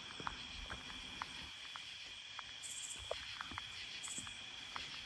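Night insect chorus of crickets and katydids: a steady high drone, three short very high buzzing pulses about a second or so apart, and scattered faint ticks.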